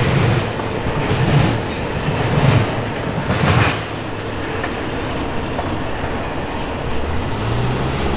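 Wheels of the last cars of a double-stack intermodal container train rolling away, clacking over rail joints about once a second for the first few seconds, then settling into a steady rumble.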